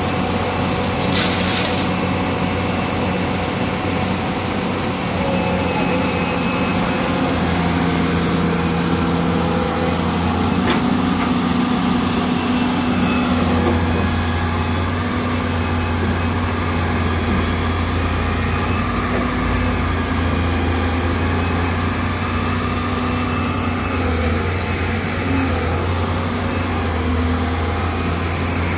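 Diesel engine of a heavy earthmoving machine running steadily, with a deep, even hum that shifts slightly in pitch as the engine takes load. A short hiss sounds near the start.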